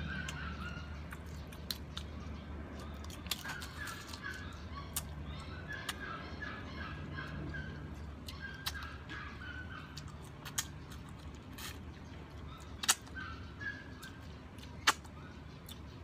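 Close eating sounds from a person chewing a meal, with scattered sharp clicks, two louder ones near the end. A bird chirps in short runs in the background.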